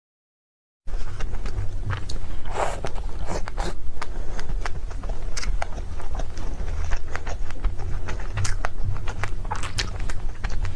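Close-miked chewing and mouth sounds of someone eating cake: irregular soft clicks and smacks over a low rumble, starting about a second in after a brief silence.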